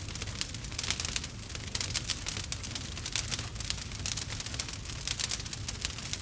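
Wood campfire burning, with dense, irregular crackles and pops over a low steady rumble of the flames.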